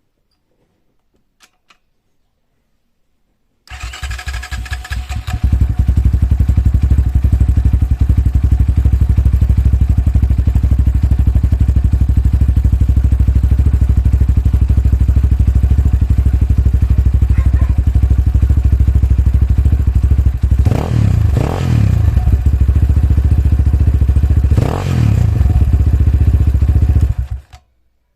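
Kovi Advance 300 enduro motorcycle's single-cylinder four-stroke engine started and idling steadily, with two short throttle blips near the end before it is shut off. It is run briefly on fresh oil so the oil pump fills the empty oil filter before the level is rechecked.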